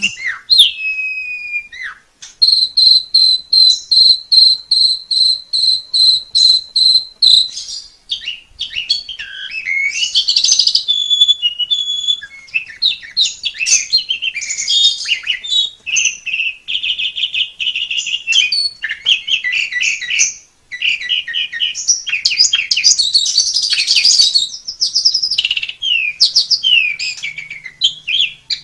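Asian pied starling singing a long, varied song: a run of rapid, evenly repeated sharp notes from about two seconds in to about seven, then a busy mix of whistles, rattling trills and chatter.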